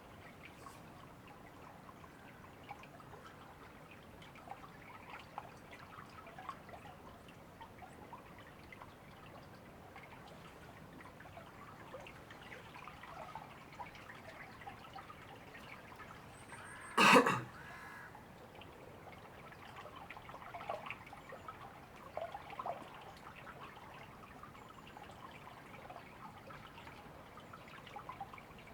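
A small river or stream trickling steadily, with scattered drip-like splashes. About two-thirds of the way through, one brief sound much louder than the water cuts in.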